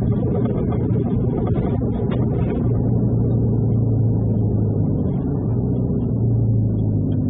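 Truck engine running with a steady low drone, heard from inside the cab.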